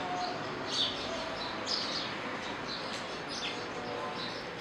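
Lovebirds chirping: short, high, sharp chirps roughly once a second over a steady background hiss.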